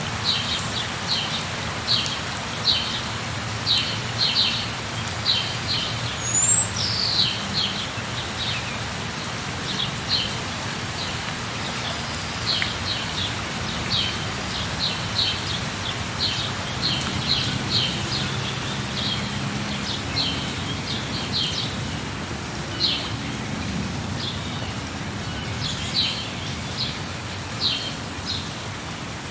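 Steady rain falling, with birds chirping over it in many short repeated calls and a couple of whistled glides about six to seven seconds in. The chirping thins out in the middle and picks up again near the end.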